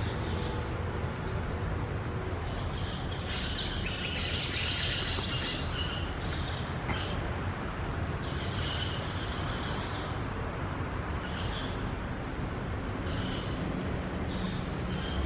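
Birds chirping in short bursts, the longest run about three to six seconds in, over a steady low rumble.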